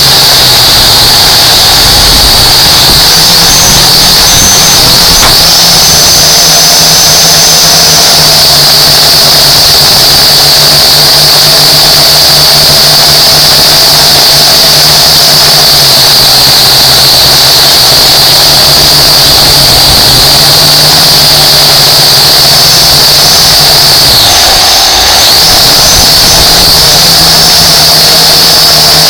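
Camera drone's propellers and motors running steadily, a loud high whine over a low hum, picked up by its own microphone; the pitch dips and recovers briefly near the end.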